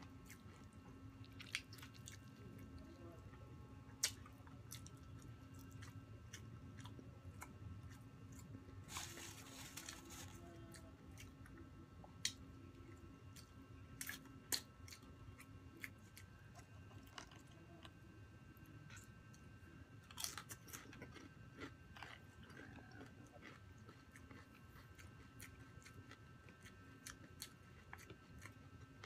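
Close-miked eating by hand: chewing and biting into roast chicken and rice, with scattered small crunches and clicks. There is one longer crunching, rustling burst about nine seconds in, over a faint steady hum.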